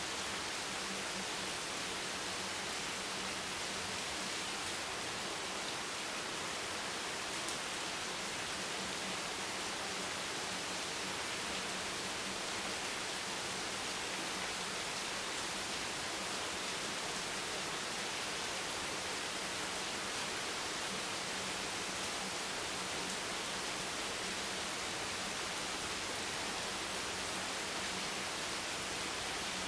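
Steady rain sound: an even hiss, strongest in the high end, with no single drops standing out and a faint low hum underneath.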